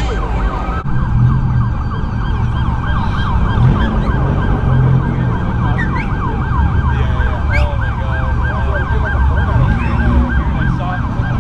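Police siren on a fast yelp, its pitch sweeping up and down several times a second without a break, over a low rumble of idling car engines.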